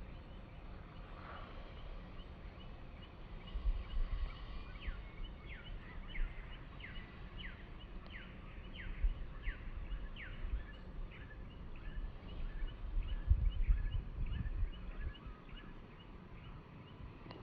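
A bird calling repeatedly: a run of high, down-slurred chirps, then quicker short notes. Bursts of low rumbling come twice, about four seconds in and again near the end.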